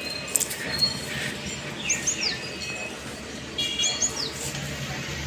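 Bird chirping: a short phrase of quick, high, falling whistles, repeated about every two seconds.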